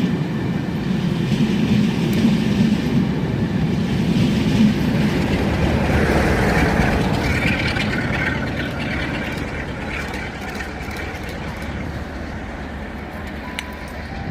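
A train running past, with a heavy rumble that fades steadily over the last half as it moves away.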